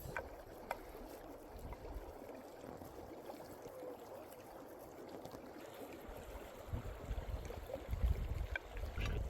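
Steady rushing noise like running water, with a few light clicks and low rumbles toward the end.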